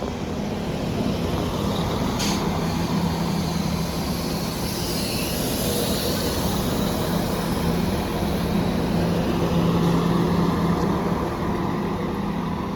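Class 197 diesel multiple unit pulling slowly into a station, its diesel engines running with a steady low hum. A sharp click comes about two seconds in, and a higher hiss rises and fades around the middle.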